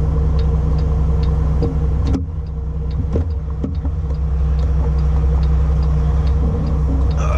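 Semi-truck diesel engine idling, heard from inside the cab as a steady low hum. A faint even ticking runs at about two or three per second, and a few knocks come around two to three seconds in.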